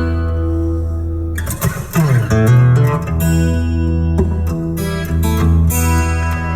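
Music with strummed acoustic guitar over strong, sustained bass, played through a car's sound-quality audio system; a note slides downward about two seconds in.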